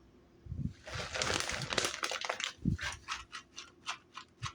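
Food packaging being handled in the kitchen: a rustling, crinkling stretch about a second in, then a quick run of short shaking rattles, with a few dull knocks against the counter.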